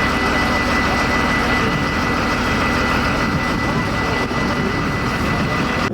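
A large engine running steadily, with a constant high whine over it; the sound stops abruptly near the end.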